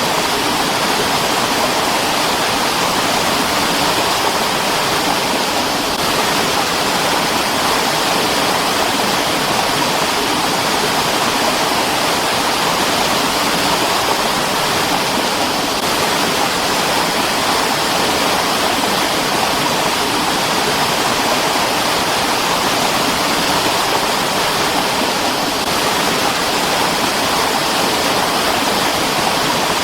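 Mountain stream rushing over rocks: a steady, even sound of flowing water that never lets up.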